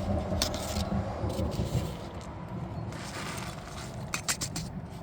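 Handling noises from food preparation: scattered light clicks and taps with some scraping, and a quick run of three clicks about four seconds in.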